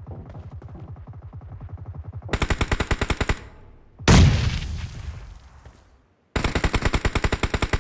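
Video game automatic gunfire sound effects. A quieter rapid string of shots gives way to a loud burst about two seconds in. A heavy boom about four seconds in dies away, and after a moment's silence loud sustained automatic fire starts near the end.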